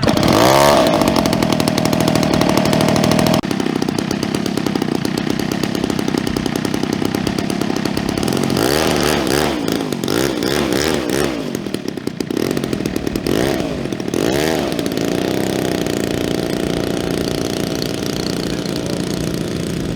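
Gas engine of a giant-scale RC warbird, revving up sharply at the start and then running loud at high revs. Around the middle its pitch swings up and down several times, as the plane passes or the throttle changes, then it settles to a steadier drone near the end.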